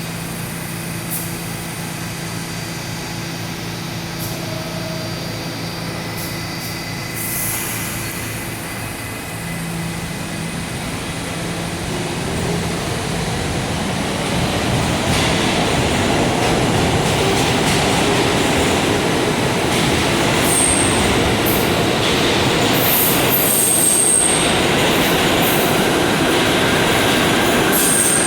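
R68 subway train running through the station, its rumble building steadily louder from about halfway through, with several short high-pitched wheel squeals near the end.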